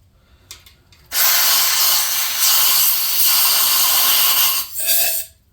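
Aerosol brake cleaner spraying into a freshly tapped head bolt hole in an LS engine block, flushing it clean. It is one long loud hiss starting about a second in, dipping briefly twice, then a short last burst before it cuts off.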